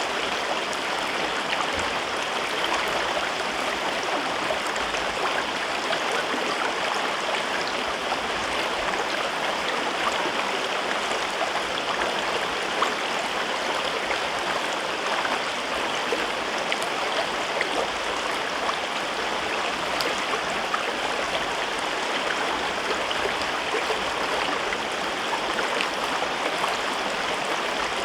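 River water flowing and babbling over rocks in a gorge, a steady rushing murmur with small splashes scattered through it.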